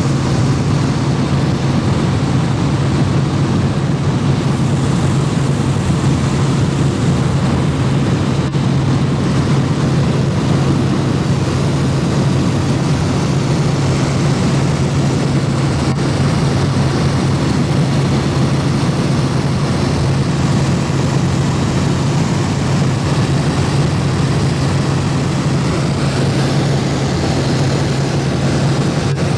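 Helicopter heard from aboard in flight: a loud, steady drone of engine and rotor with a strong low hum that does not change.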